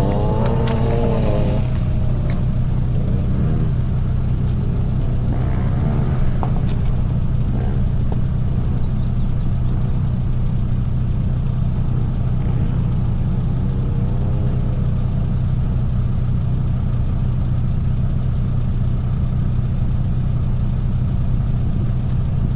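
A vehicle engine idling steadily, a constant low hum that neither revs up nor dies down, with faint voices in the background now and then.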